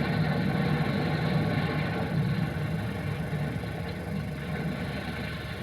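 A steady low mechanical rumble, like an engine running.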